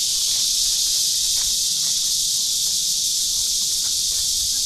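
Summer cicadas in a dense chorus, a steady high-pitched drone.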